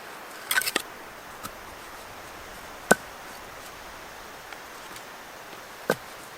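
Firewood being chopped: a few quick knocks in the first second, then single sharp strikes about three seconds apart, over a steady hiss.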